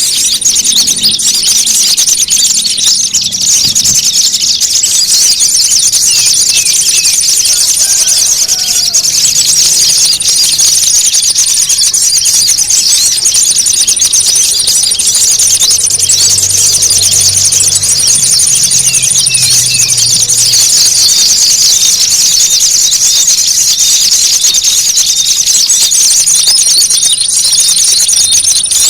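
Dense, unbroken chatter of many small songbirds calling at once, rapid high-pitched chirps and trills piled on each other: an agitated bird-lure track meant to draw small birds in. A thin steady high whistle comes and goes over it.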